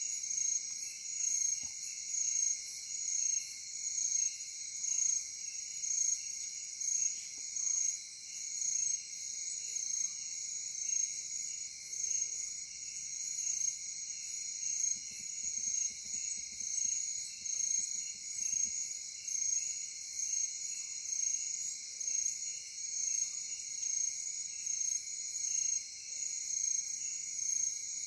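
Night chorus of crickets and other insects, a dense steady trilling with a high chirping layer that pulses about once a second.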